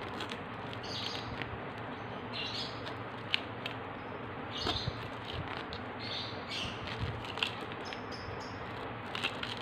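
Small birds chirping now and then in short high calls over a steady background hiss, with a couple of sharp clicks.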